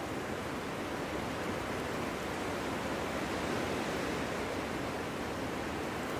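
Wind blowing through a forest: a steady rushing noise that swells slightly around the middle.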